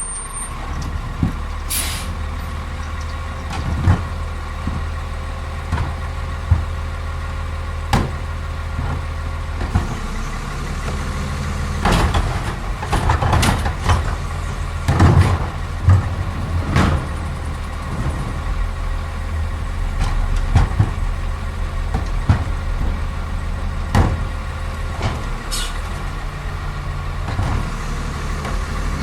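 Crane Carrier LET2 garbage truck with a Heil Multitask body, its engine running steadily under a thin, steady whine, with scattered knocks and bangs that come thickest around the middle.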